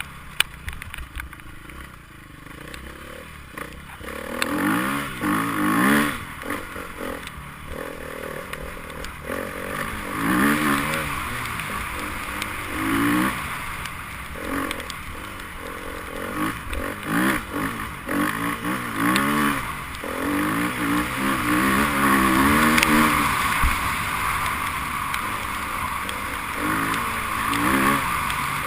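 Enduro motorcycle engines revving, their pitch rising and falling again and again as the throttle opens and closes, over a steady hiss.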